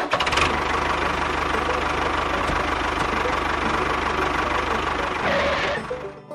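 A motor running steadily with a fast, even rattling pulse and a low hum. It fades out shortly before the end.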